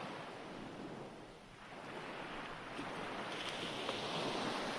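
Ocean waves washing on a shore, a steady surf hiss that ebbs about a second and a half in and swells back up.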